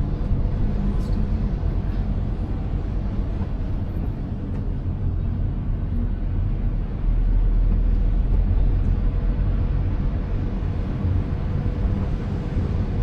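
Car driving, heard from inside the cabin: a steady low rumble of engine and road noise that gets a little louder about seven seconds in.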